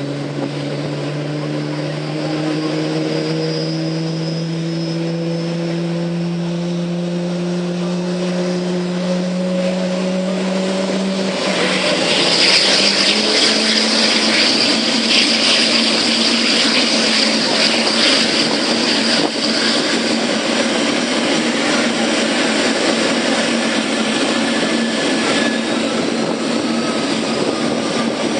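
Airliner's jet engines spooling up for takeoff: several steady tones rise slowly in pitch, then about 11 seconds in a loud rush of engine noise sets in as takeoff thrust comes on, and it holds steady.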